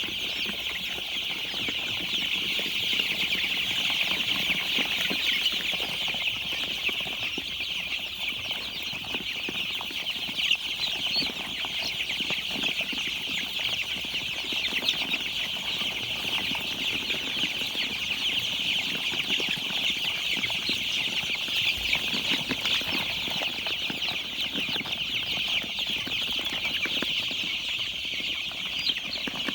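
A large brood of young chicks peeping all at once: a dense, continuous chorus of short, high peeps.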